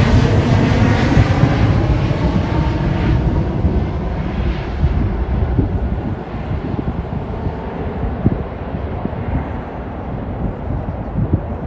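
Jet airliner's engines at takeoff power, fading steadily as the plane climbs away, leaving a low rumble.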